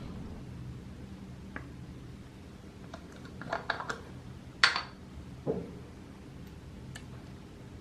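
A few light clicks and taps over a low steady hum, the sharpest click a little past the middle, followed by a softer knock.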